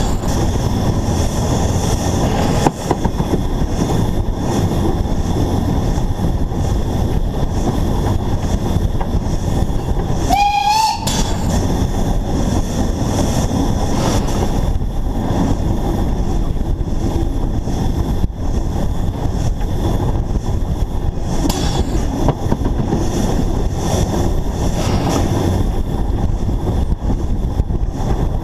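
Narrow-gauge steam locomotive running along the line, heard from on the locomotive itself as a steady rush of running noise. About ten seconds in, a single short blast of its steam whistle, rising slightly in pitch.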